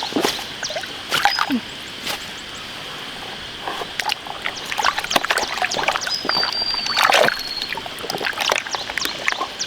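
Irregular splashing and sloshing in shallow muddy water, as someone wades and grabs for fish by hand, over a steady high hum. A brief thin whistle comes about six seconds in.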